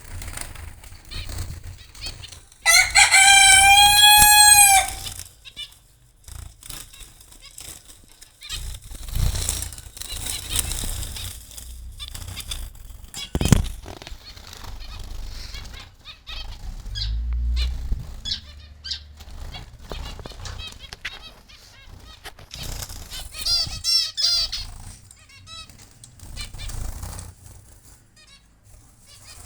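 Zebra finches in an aviary making short chirping calls, with wings fluttering. About three seconds in, a loud, long call rises and falls for about two seconds, like a rooster crowing, and a sharp knock comes about halfway through.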